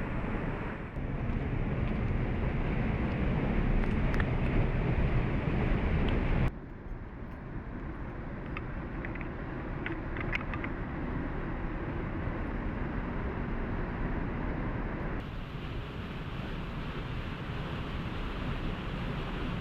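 Steady rushing of a waterfall, its level jumping abruptly a few times as the sound shifts.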